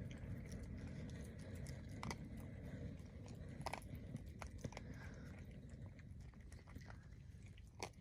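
A person chewing and crunching food close to the microphone, with a few sharp crunches, over a steady low rumble.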